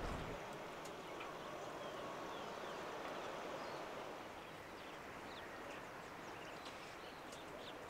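Faint outdoor ambience: a steady hiss with scattered short, faint high chirps.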